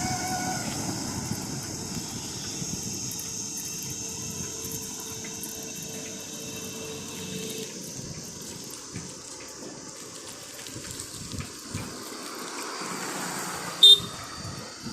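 Steady rushing wind and traffic noise on a moving bicycle, with faint steady tones that fade out about halfway through and a short, loud beep near the end.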